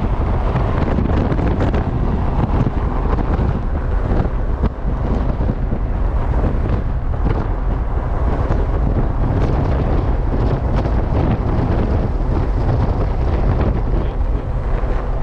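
Loud, steady wind buffeting the microphone of a moving vehicle, over a low rumble of road and engine.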